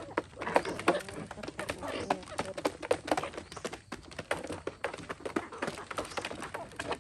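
Rapid, irregular tapping and clicking, several small knocks a second.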